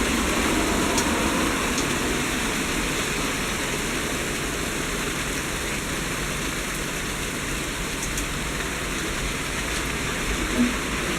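Heavy fall of pea-size hail: a dense, steady hiss of hailstones pelting surfaces, with a few sharper ticks and a short knock near the end.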